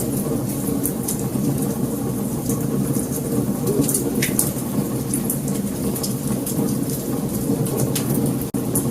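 Wood fire burning: a steady low rumble of flames with scattered sharp crackles and pops, the loudest about four seconds in. There is a brief drop-out near the end.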